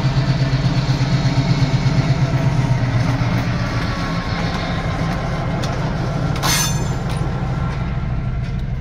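Small diesel switcher locomotive running: a steady, deep engine hum with a fast, even pulse and a faint high whine. A short burst of hiss comes about six and a half seconds in.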